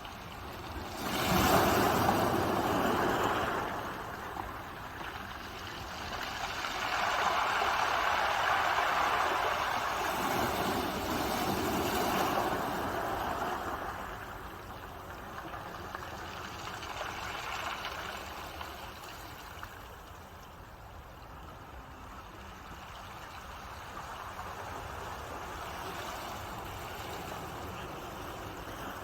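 Ocean waves surging and breaking, two big swells rising about a second in and again from about seven to thirteen seconds, easing off to a softer steady wash.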